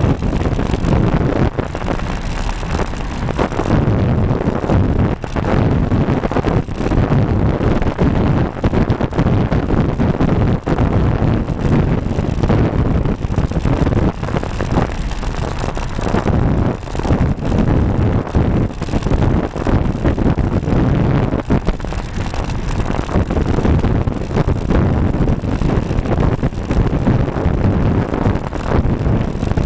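Wind buffeting the microphone of a camera mounted on a moving road bike: a loud, rough, constant noise that flutters unevenly.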